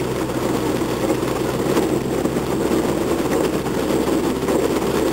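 Car engine running steadily under load, heard from inside the cabin, with a constant rush of noise over it as the car drives through floodwater.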